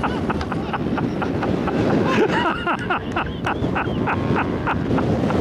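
Strong gusting wind buffeting the microphone, a steady low rumble broken by many short knocks and pops. Faint distant voices come through about two seconds in.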